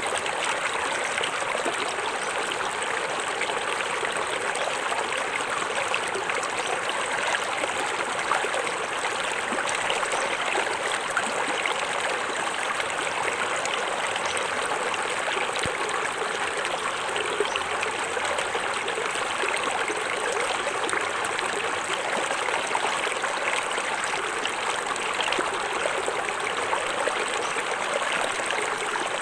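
Small forest waterfall: water splashing and trickling in a steady, unbroken rush.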